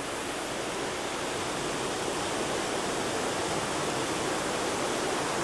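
Mountain stream rushing, a steady even rush of flowing water.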